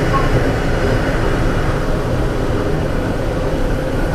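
Diesel multiple-unit express train running steadily with a low rumble, its diesel engines running.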